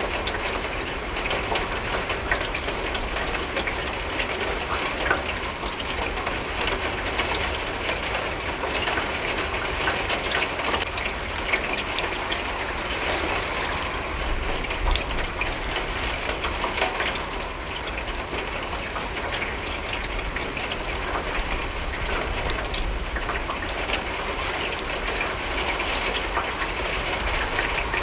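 Steady rain pattering on a window, a dense hiss of drops with many small ticks scattered through it.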